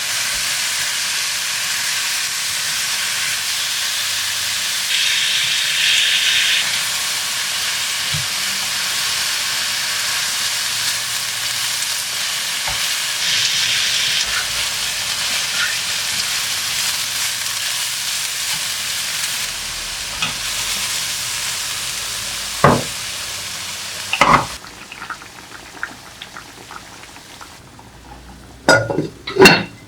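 Thin-sliced beef brisket and vegetables sizzling as they are stir-fried in a frying pan, a steady hiss that stops about 25 seconds in. A few sharp knocks come just before the sizzle stops, and several quick clacks of utensils or dishes follow near the end.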